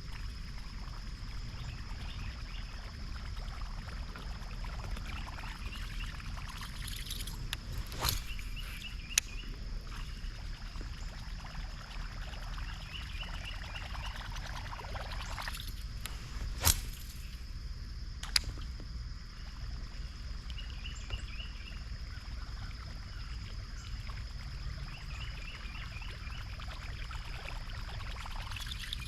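Outdoor creek ambience heard from a fishing kayak: a steady high-pitched drone with short trilling chirps now and then over a low rumble. A few sharp clicks and knocks come through, the loudest about two-thirds of the way in.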